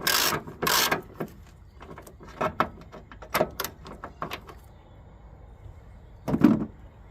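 Ratchet wrench worked in quick strokes on an engine mount bolt, then lighter metallic clicks of tools, and one loud dull knock near the end.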